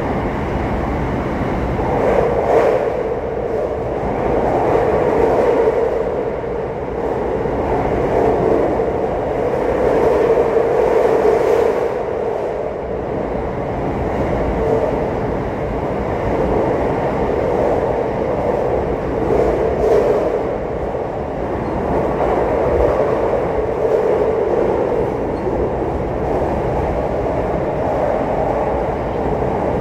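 Train running at speed through a tunnel, heard from inside the carriage: a steady running noise of wheels on rail, with a hum that swells and fades every few seconds.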